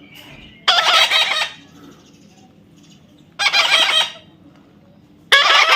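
Parrot giving three loud, harsh squawks, spaced about two seconds apart.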